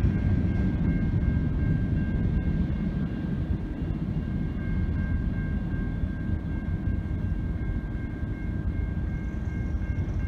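A freight train's last covered hopper cars rumble past a grade crossing, the rumble easing off as the train clears. Throughout, the crossing's warning bells ring steadily in a quick, even pulse.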